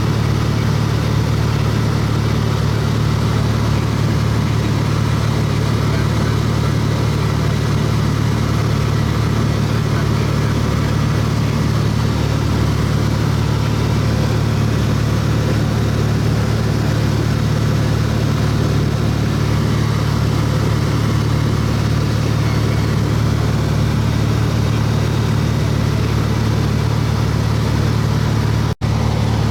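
Airplane engine and propeller running steadily at cruise, heard from inside the cabin as a constant low hum with a broad rushing noise. The sound cuts out for a split second near the end.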